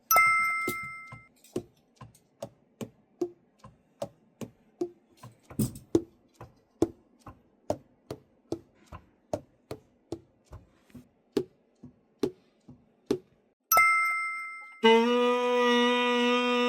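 A two-tone chime rings, then soft, evenly spaced clicks, about two or three a second, like saxophone keys and pads being opened and closed. A second chime follows, and near the end a tenor saxophone plays a held note that steps down.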